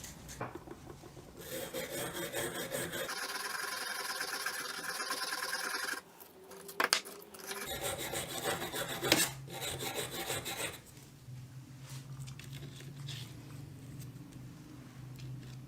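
Rapid back-and-forth scraping strokes on the rusted steel of old pliers, like filing or rubbing off rust, with two sharp metallic clicks midway. It then gives way to a quieter stretch over a steady low hum.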